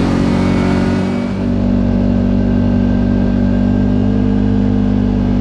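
Kawasaki Teryx KRX side-by-side engine running steadily under way on a snowy trail, with a brief dip in engine note about a second in before it settles back to a steady drone.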